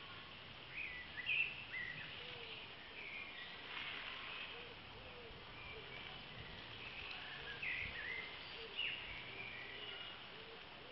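Birds chirping in short, scattered calls over a steady outdoor hiss, with a few louder chirps about a second and a half in and again near the end, picked up by a smartphone's built-in microphone.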